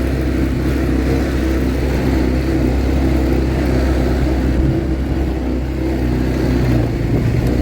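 ATV engine running steadily under way, with a low rumble and no clear changes in revs.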